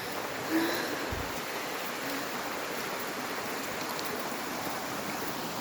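Rushing water of a stream or waterfall: a steady, even wash of noise.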